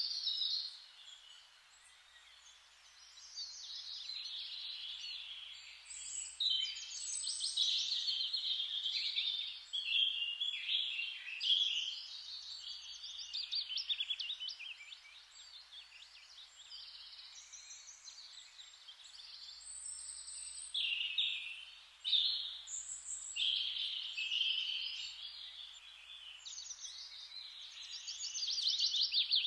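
Several songbirds singing at once: overlapping, rapid trilled and warbled phrases, high-pitched, over a faint steady hiss, with a short lull near the start.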